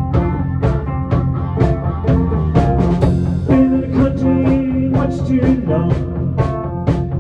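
Rock band playing an instrumental stretch: a drum kit keeps a steady beat under electric guitar and bass.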